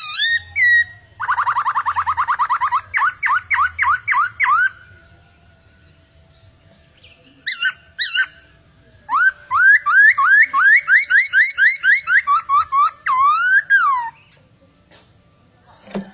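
Laughingthrush (poksai) singing loud, varied whistled phrases. A fast trill gives way to a run of repeated rising whistles. After a pause there is a short burst, then a long run of rising whistled notes that ends about two seconds before the end.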